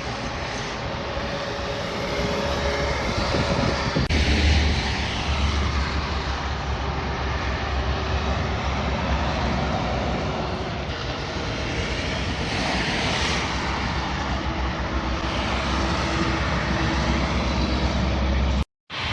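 Heavy trucks driving past on a highway: continuous engine and tyre noise, with a deep engine drone growing stronger about four seconds in. The sound cuts out for a moment near the end.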